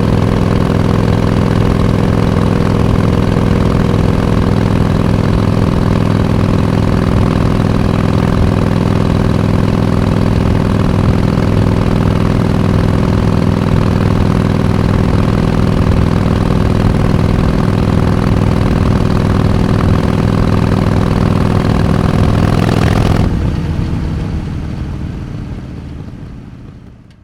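Harley-Davidson Iron 883's air-cooled 883 cc V-twin idling steadily. Near the end the engine stops and the sound dies away.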